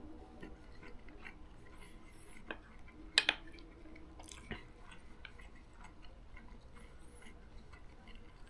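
A person quietly eating fried rice: soft chewing with scattered light clicks of a utensil against the dish, and one sharper click about three seconds in.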